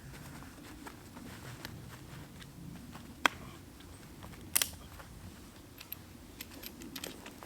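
A folding camp cot bed being set up: quiet handling noise and small ticks, with a sharp click about three seconds in and a double click about a second later as parts of the frame snap into place.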